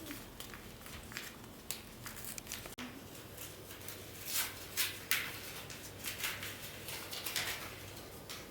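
Bandage material being torn and handled: a run of short ripping and rustling sounds, the loudest about four and a half, five and seven seconds in.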